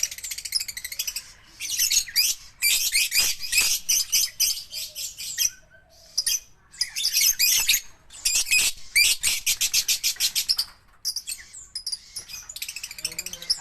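Lovebirds chattering: rapid runs of high, shrill chirps in several long bursts, broken by short pauses.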